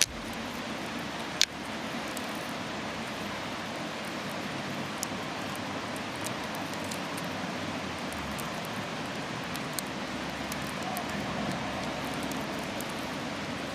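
Wood campfire burning with a steady hiss and an occasional sharp crackle or pop.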